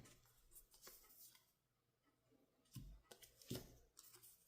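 Near silence with a few faint paper-and-card handling sounds: soft rustles and light knocks, the loudest about three and a half seconds in.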